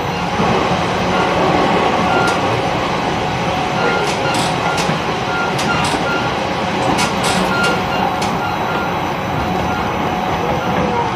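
E129 series electric train running at speed: steady wheel-and-rail noise with sharp clicks as the wheels pass over rail joints, mostly in the middle of the stretch. A short, evenly repeated tone sounds over the middle few seconds.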